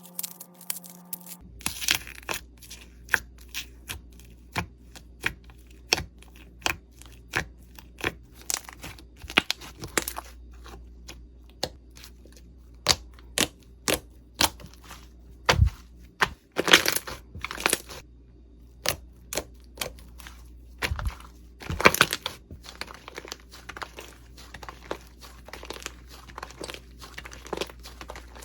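Slime being squeezed, pressed and stretched by hand, giving a steady run of sharp, irregular crackling pops and crunches, with a few louder snaps near the middle.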